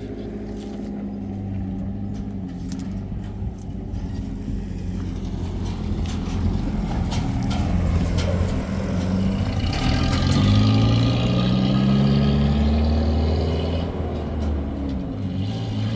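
A motor vehicle's engine running, its pitch falling and climbing as it speeds up and slows, loudest about ten seconds in. A few light knocks come in the middle.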